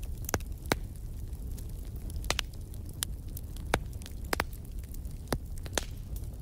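Wood fire burning in a fireplace: a steady low rumble of the flames with sharp, irregular crackles and pops, about a dozen over a few seconds.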